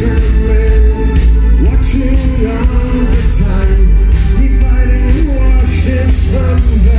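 Live band playing a song through a concert PA, loud, with heavy bass and a sung melody over it.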